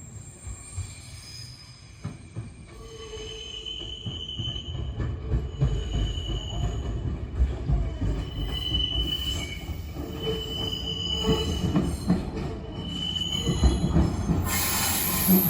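Echizen Railway MC6101-series railcar pulling into a station: a rumble of wheels on rail growing louder as it approaches, with high-pitched wheel squeal coming and going. Near the end the sound grows louder and brighter as the train draws level.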